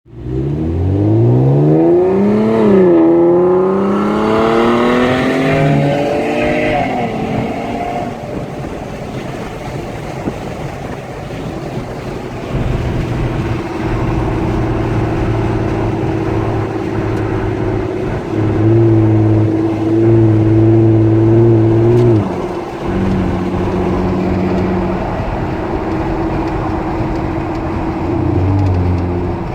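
Chrysler 200 S running through an aftermarket Magnaflow exhaust. The revs climb, dip briefly about three seconds in, climb again until about seven seconds in, then fall away. From about twelve seconds in the exhaust holds a steady drone at a few constant pitches.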